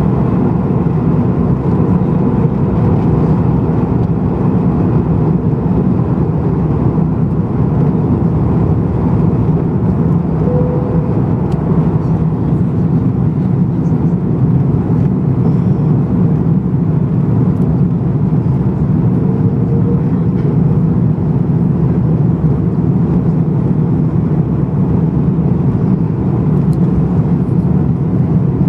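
Steady cabin drone inside an Airbus A330-243 in flight: its Rolls-Royce Trent 772B engines and the rush of air over the fuselage, a constant low rumble.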